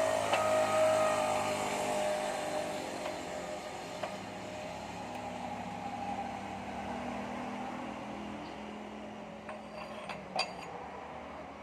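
A motor vehicle's engine running steadily, gradually fading away, with a sharp click near the end.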